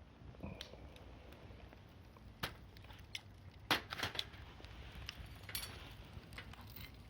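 Wood campfire crackling, with a few sharp pops spaced irregularly over a quiet background.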